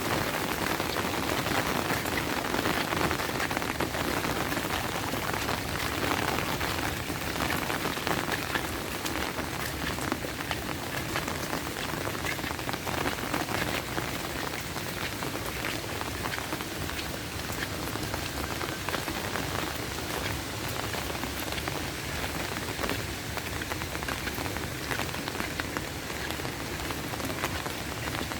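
Steady rain falling, a dense, even patter of drops hitting surfaces.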